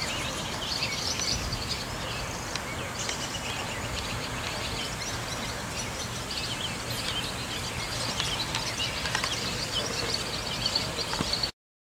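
Many birds chirping in short high notes over a steady outdoor background with a low hum underneath; the sound cuts off suddenly near the end.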